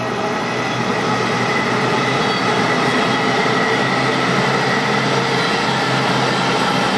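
Train passing on the line, a loud steady rumble of wheels on rail with a steady whine of several tones over it.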